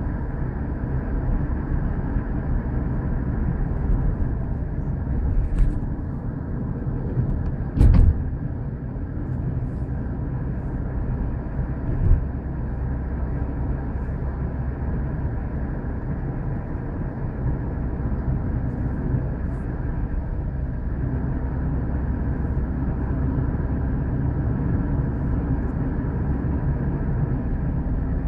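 Steady low rumble of a moving passenger train, heard from inside the carriage, with one sharp knock about eight seconds in and a softer one a few seconds later.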